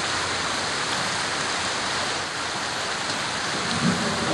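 Steady, even hiss of rain falling, with no single distinct events.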